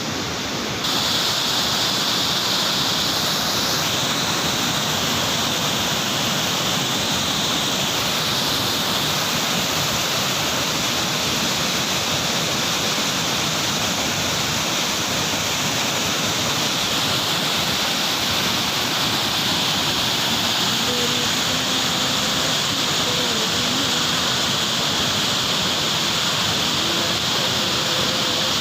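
Floodwater rushing through a drain swollen by heavy rain, a steady loud rush that grows louder about a second in.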